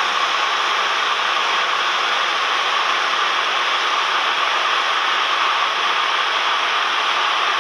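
Steady cabin drone of a Cessna 172M's four-cylinder Lycoming engine and propeller at constant power, mixed with airflow hiss.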